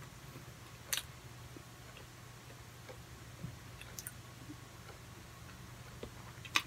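A person quietly chewing a soft, cream-filled matcha donut bar, with a few sharp clicks about a second in, about four seconds in, and a louder one near the end, over a low steady hum.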